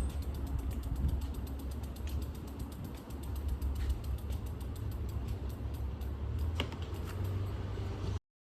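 Bicycle freewheel hub clicking rapidly and evenly as the bike coasts, with creaks from the bike and a steady low rumble of wind and road. The sound cuts off abruptly near the end.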